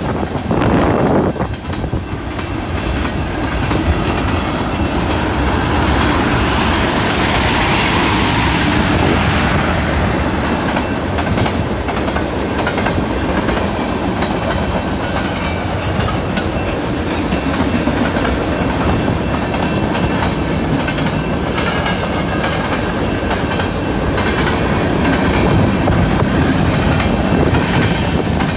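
A CN train rolling past, its cars' steel wheels clicking over the rail joints in a steady, loud rumble that lasts the whole time.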